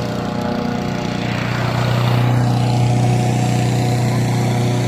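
Lawn mower engine running steadily, growing louder about two seconds in.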